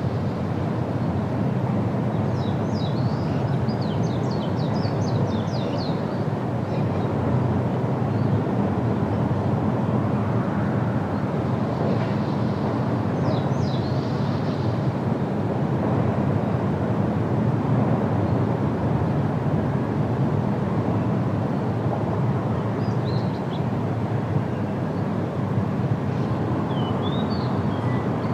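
Steady wind blowing through trees, with a low, even rush. Small birds give short high chirps in a few brief clusters over it.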